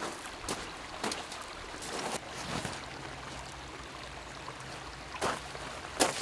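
Lake water lapping and trickling steadily, with a few scattered soft knocks and a sharper one near the end.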